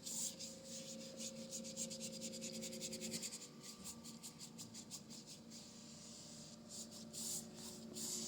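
Paintbrush scrubbing watered-down acrylic paint across a canvas in quick back-and-forth strokes. The strokes ease off in the middle and pick up again near the end.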